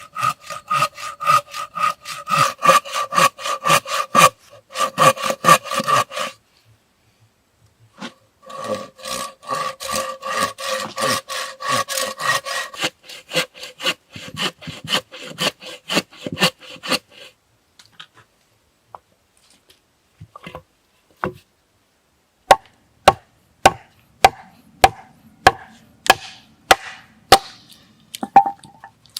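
Hand saw cutting wood in quick back-and-forth strokes, the blade ringing, in two spells with a short pause between. In the last seconds come sharp strikes on wood, about two a second.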